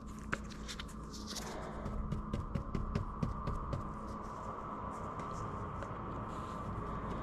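A steady hum, with a higher tone joining about a second and a half in, and many light clicks and taps scattered over it, thickest in the middle.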